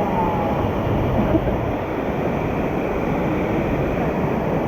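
Steady rushing roar of a cascading mountain stream, white water pouring over rocks close by.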